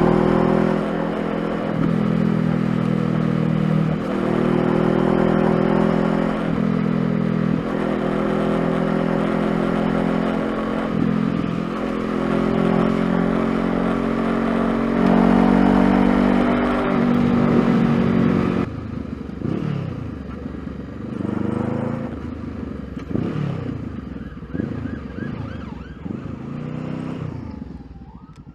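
Honda CBR500R's parallel-twin engine under way, accelerating through the gears: the pitch climbs and drops back at each shift. About two-thirds in the sound changes suddenly to quieter engine revs that rise and fall.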